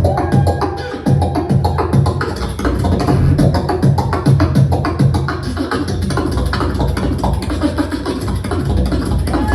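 Beatboxing: a fast, steady stream of vocal drum hits (kicks and snare clicks) over a continuous deep vocal bass line.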